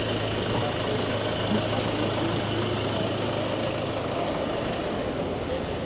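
A vehicle engine idling, a steady low hum that weakens about four and a half seconds in, over a constant wash of city street noise.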